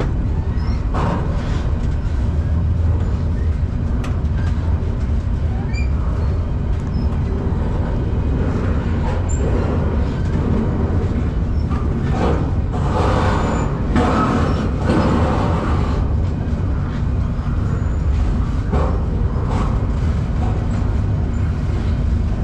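Freight train running, heard from aboard a car: a steady low rumble with rattling and clanking that swells about twelve to fifteen seconds in.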